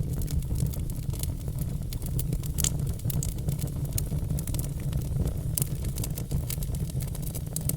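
Log fire burning, with many sharp irregular crackles and pops over a steady low rumble of the flames.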